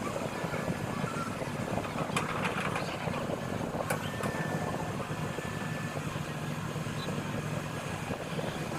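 A heavy engine runs steadily with a low hum, and a few sharp knocks or clanks come about two and four seconds in.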